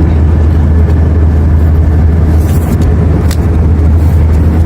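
Airbus A321 cabin noise in cruise: a steady, loud, low drone of engines and airflow, with a faint click about three seconds in.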